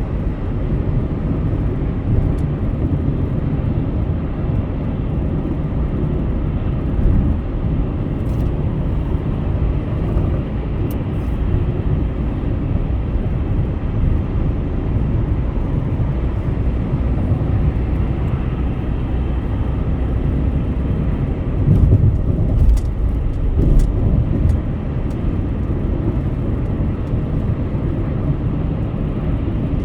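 Car driving on a highway: steady low road and engine rumble that swells briefly about three-quarters of the way through.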